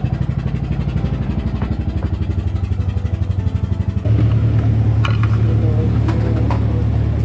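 Boat engine running steadily with an even, rapid thumping; about four seconds in it changes to a louder, deeper drone. A few short knocks are heard after that.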